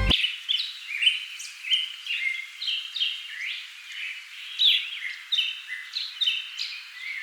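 Small birds chirping: a dense, continuous run of short chirps and quick whistled slides, several a second, thin and bright with no low sound beneath.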